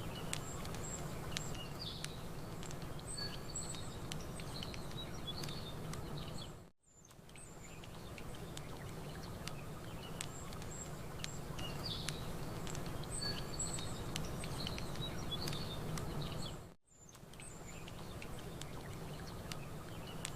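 Campfire crackling in small sharp pops over a steady bed of water and outdoor noise, with small birds chirping. The sound drops out briefly twice, about ten seconds apart, and the same chirps recur after each drop: a looped ambience track.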